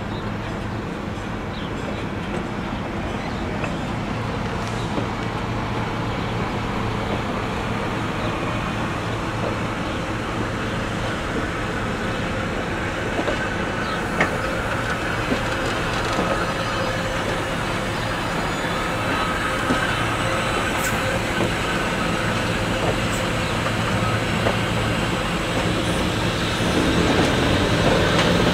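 The Nebraska Zephyr's articulated stainless-steel passenger cars are being backed slowly past on the rails, with steady wheel-on-rail rolling noise, scattered clicks and a low steady hum. The noise grows louder near the end as more of the train draws close.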